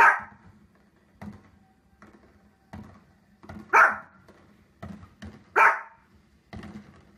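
Small dog barking: three loud, sharp barks about two seconds apart, with softer short sounds in between.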